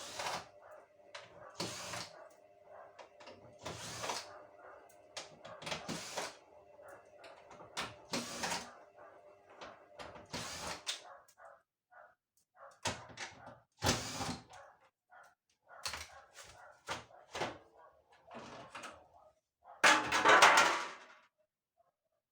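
Repeated knocks, clicks and clatter, with a steady hum under them that stops about halfway through, and a louder rattle near the end.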